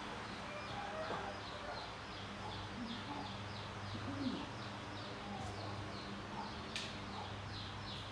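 Small bird chirping over and over, about three short falling chirps a second, over a steady low hum.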